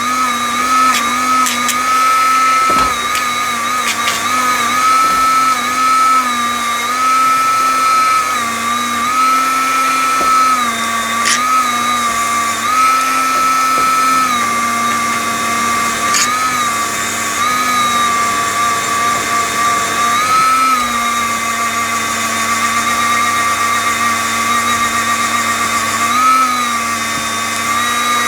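Dremel rotary tool with a small grinding stone running at high speed on metal. Its steady whine dips in pitch again and again as the stone is pressed onto the work, then recovers.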